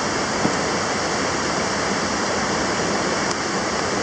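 Steady rush of a mountain stream's water running through the gorge.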